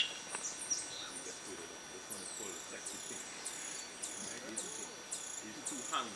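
Rainforest insects and birds: a steady high-pitched insect drone, joined about two seconds in by a high, falling chirp repeated about twice a second. A sharp click comes at the very start.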